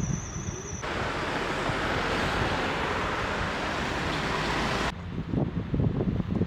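Outdoor wind buffeting the microphone, with a steady rushing noise that cuts in abruptly about a second in and cuts off just before the end.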